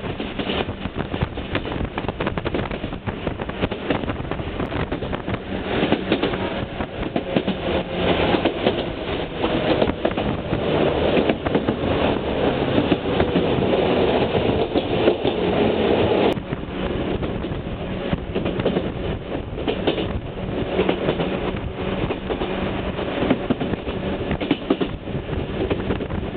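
Running noise of a Chichibu Railway electric train heard from inside a passenger car: wheels clattering over the rails under a steady motor hum. It grows louder for several seconds in the middle and drops suddenly about sixteen seconds in.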